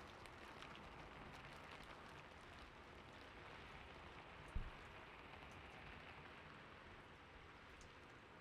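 Faint, steady background rain, gentle and even. About four and a half seconds in there is a single brief low thump.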